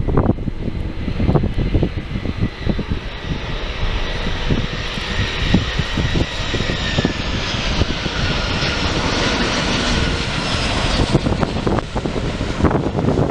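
Jet engines of a wide-body airliner passing, a rushing roar with a faint whine that builds to its fullest in the second half, over wind buffeting the microphone.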